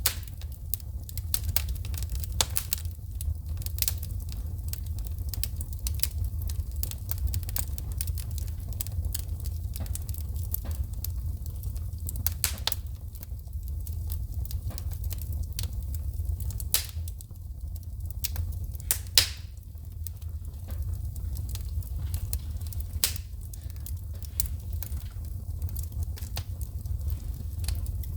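Wood fire crackling and popping: a dense run of sharp snaps from burning logs throwing sparks, over a steady low rumble of the flames, with a few louder pops about 12, 19 and 23 seconds in.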